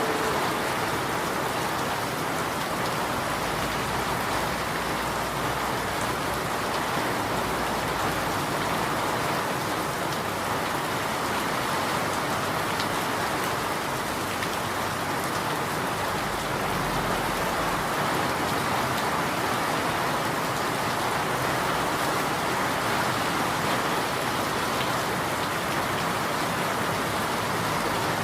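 Steady rain falling on a surface, an even, unbroken patter of drops.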